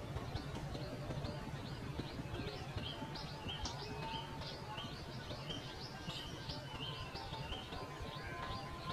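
Small birds chirping in a rapid run of short, high notes that grow denser from about three seconds in, over a steady low background rumble.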